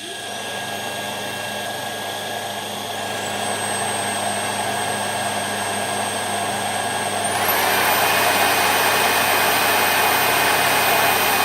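Cordless stick vacuum's motor running with a high whine over a rush of air. It steps up in speed about 3 seconds in and again, louder, about 7 seconds in, as it is switched to higher power settings.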